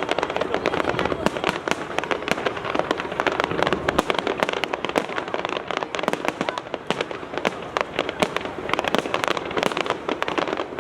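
Fireworks display: a dense, unbroken run of sharp cracks and pops from bursting shells.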